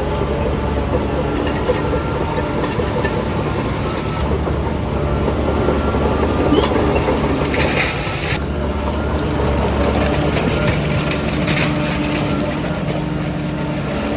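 Heavy diesel earthmoving machinery running steadily under load, with a brief hissing burst about eight seconds in.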